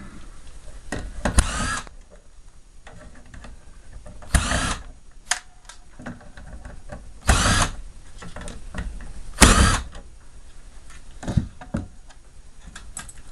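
Cordless drill-driver run in four short bursts, each under a second, taking out screws during disassembly, with small clicks and knocks of parts being handled in between.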